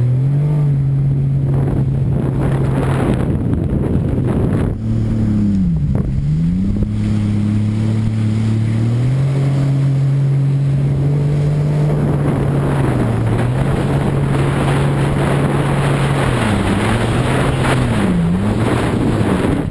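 Jet ski engine running under way, its note holding steady and stepping up and down with the throttle, dipping sharply and picking up again about six seconds in and twice near the end. A rushing noise of wind and water runs underneath.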